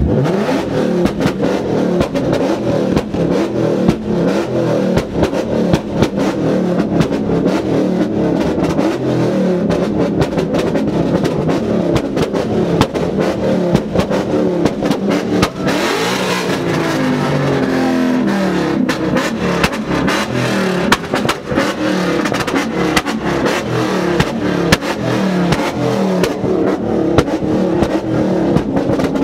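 Ford Mustang GT's V8 being revved hard over and over while parked, heard from inside the car's cabin, the engine note climbing and dropping with each rev.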